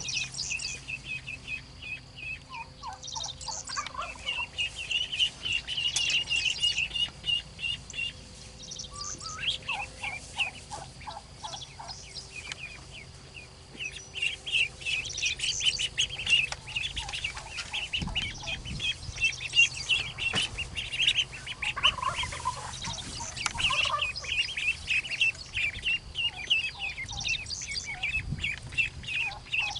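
Many birds chirping busily and continuously in quick, high chirps, with runs of lower calls now and then.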